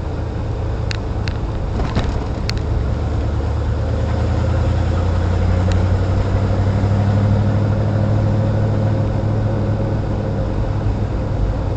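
Classic car's engine and road noise heard from inside the cabin on a rough back road: a steady low drone that swells somewhat in the middle, with a few sharp rattles or clicks in the first few seconds. The driver suspects a fuel problem, as the engine is not running happily.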